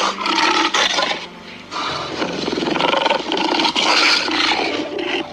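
A big cat growling, presented as a cheetah's growl: two long, rasping growls, the second starting after a short pause about a second and a half in.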